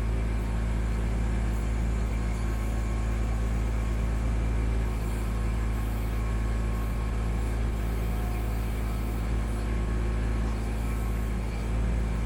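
Kubota B2650 compact tractor's three-cylinder diesel engine running steadily while the tractor works with its BH77 backhoe.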